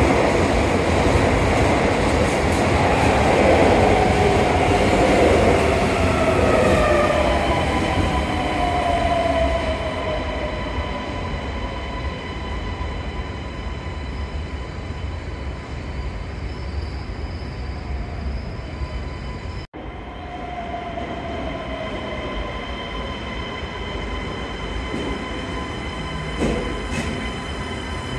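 Keisei Skyliner express train pulling out of an underground station, its running noise loud at first with a falling whine, then fading as it leaves. After a brief cut, another Skyliner rolls in along the platform.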